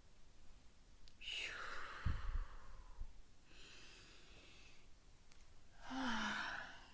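A person breathing slowly and audibly: a long breathy exhale about a second in, a softer breath midway, and a sighing out-breath near the end that finishes with a short falling hum. A dull low thump comes about two seconds in.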